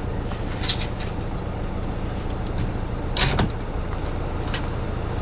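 A vehicle engine idling steadily, with a few knocks and clunks over it, the loudest about three seconds in.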